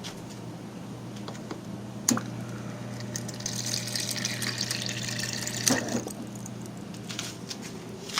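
Refrigerator water dispenser filling a small bird water dish: a click as it starts, water running with a low hum for about three and a half seconds, then a click as it stops.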